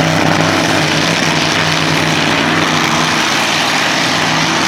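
Demolition derby trucks' engines running steadily, an unbroken engine note under loud, even noise.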